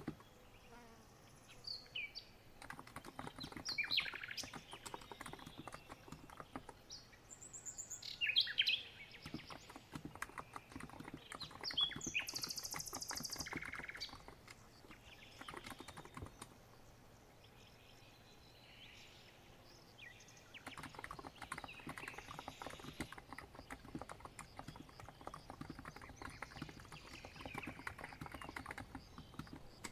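Typing on a COX Empress Living Coral Edition electro-capacitive keyboard, in spurts of quick keystrokes with a lull partway through, over birdsong with short chirps.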